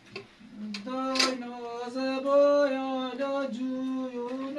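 A single person's voice singing a slow, wordless-sounding tune in long held notes, starting about half a second in. A sharp click sounds about a second in.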